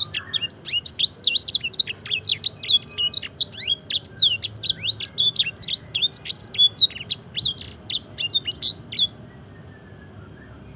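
Domestic canary singing a fast, dense run of sharp, high notes, mostly quick downward sweeps, in the blackthroat-style song it is trained on. The song stops about nine seconds in.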